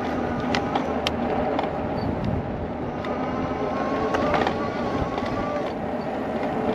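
Wind rumbling on a chest-mounted camera's microphone while riding an e-bike on a street, with traffic noise around it and a few light clicks and rattles.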